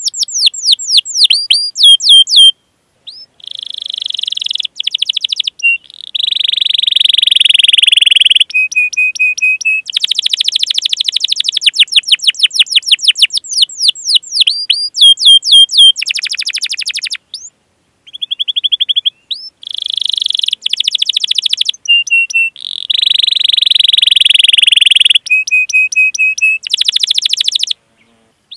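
Domestic canary singing a long, loud song: runs of rapid downward-sweeping chirps alternate with fast, dense rolling trills and short steady whistled trills, with brief pauses between phrases.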